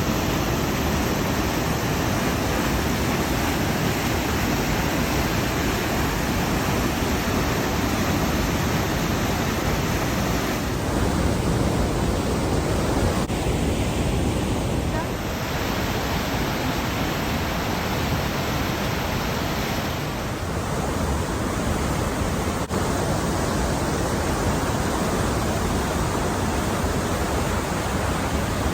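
Steady, loud rush of fast-flowing water, a mountain stream or waterfall, with its tone changing abruptly a few times.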